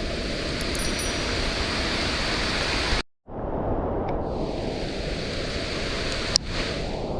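Heavy rain and rushing water making a steady, loud rushing noise. It cuts out suddenly for a moment about three seconds in.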